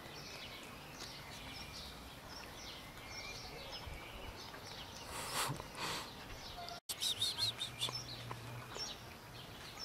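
Birds chirping in short, high repeated calls, with a brief burst of noise about five seconds in; after a cut near seven seconds the chirping comes quicker and louder.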